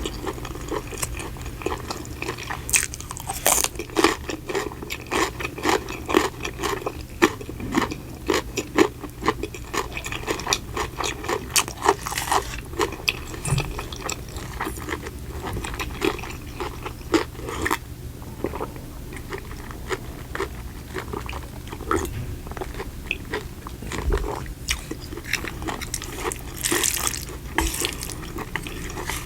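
Close-miked chewing and biting of crunchy food, a dense run of irregular crunches and crackles.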